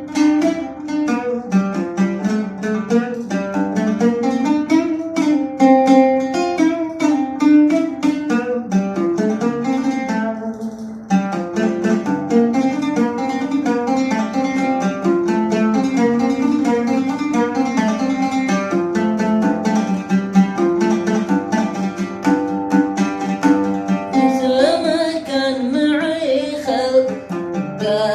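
Arabic song music led by a plucked string instrument playing quick picked melodic runs, with a brief break about ten seconds in.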